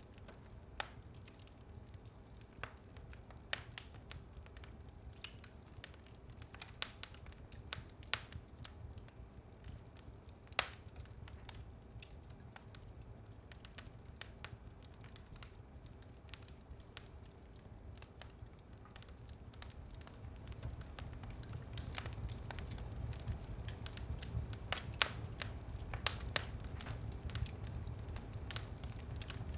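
Wood fire burning in a fireplace: scattered sharp crackles and pops over a low rumble of flame, the rumble swelling a little past the middle and the pops coming more often toward the end.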